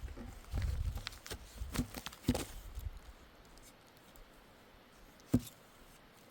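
A few scattered clicks and knocks over a low rumble in the first three seconds, then faint background with one sharp knock about five seconds in.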